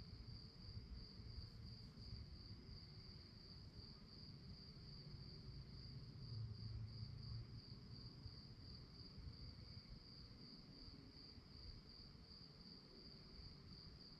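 Crickets chirping in a faint, continuous high-pitched trill with a fine, even pulse, over a low background rumble.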